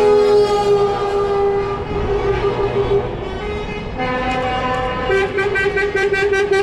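Truck air horns blowing in long, overlapping blasts. About five seconds in, a horn starts pulsing rapidly, about five times a second.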